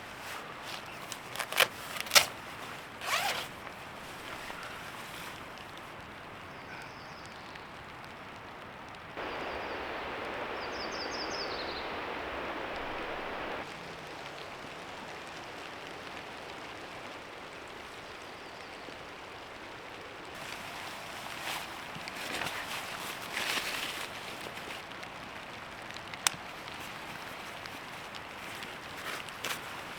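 Camp gear being handled: a few sharp knocks near the start, a steady hiss lasting about four seconds midway, then rustling with small knocks and a single sharp click later.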